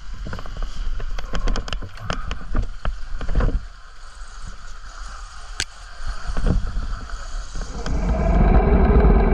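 Off-road bike riding over rough, muddy ground: wind rushing on the action camera's microphone, with many sharp knocks and rattles from the bumps. A louder low rumble builds near the end.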